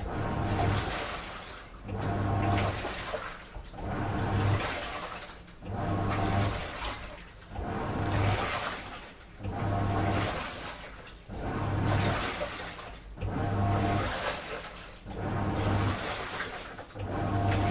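Washing machine on a wash cycle, the drum turning in surges about every two seconds, each with a motor hum and water and laundry sloshing, then a short lull before the next turn.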